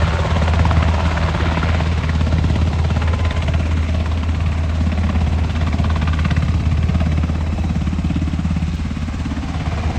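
An engine running steadily with a low, pulsing drone.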